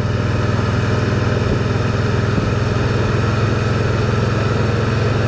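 Can-Am Spyder three-wheeler's Rotax inline-three engine running at a steady, unchanging pitch, with no revving.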